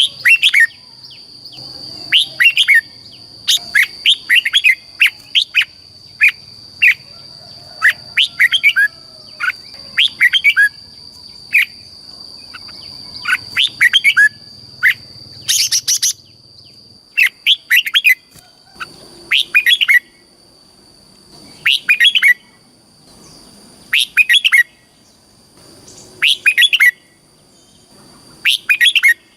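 Red-whiskered bulbul singing: short, bright, warbling phrases repeated over and over, tightly packed at first and then coming about every two seconds. A steady high tone sounds behind the first half and stops about halfway through.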